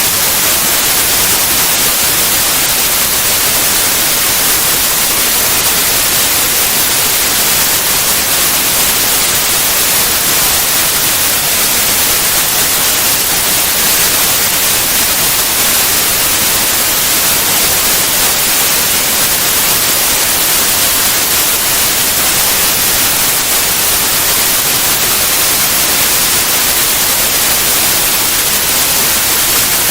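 Steady white noise: an even, unbroken hiss, brightest in the treble, with no changes.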